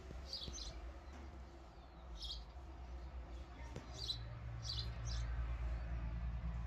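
Small birds chirping, short high chirps now and then, over a low hum that grows louder near the end.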